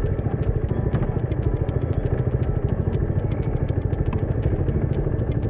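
Motorcycle engine running steadily while being ridden, with a rapid, even pulsing beat.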